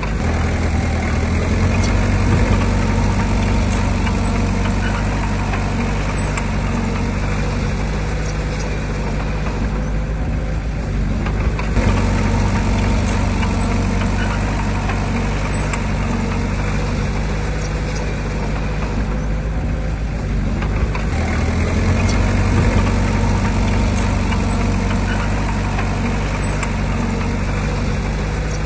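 Heavy diesel engine of earthmoving machinery running continuously, pulling harder for long stretches and easing off briefly twice.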